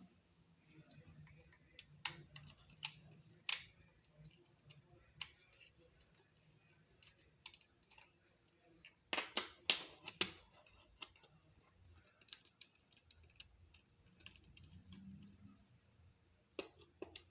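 Scattered light clicks and taps of small plastic and metal parts being handled, as on a laptop DVD drive being worked on, with a quick run of louder clicks about nine to ten seconds in.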